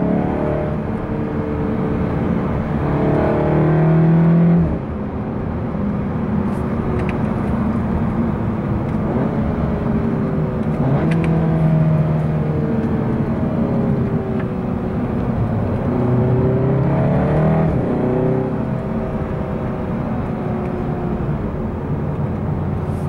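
SEAT Leon Cupra 300's 2.0-litre turbocharged four-cylinder engine and tyre noise while the car is driven, the engine note rising and falling several times with throttle and gear changes, with a drop in loudness about five seconds in.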